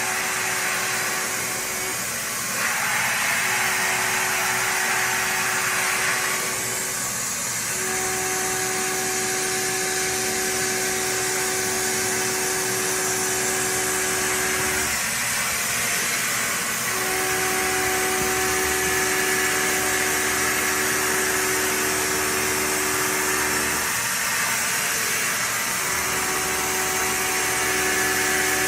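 CNC milling cutter cutting stainless steel at a 2-inch depth of cut: a steady humming tone that breaks off briefly four times and resumes, over a constant hiss.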